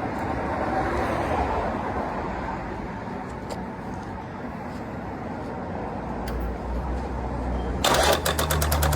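A 2005 Harley-Davidson Softail Custom's V-twin engine running with a steady, noisy rumble. About eight seconds in it turns into a rapid train of sharp pulses over a strong low drone.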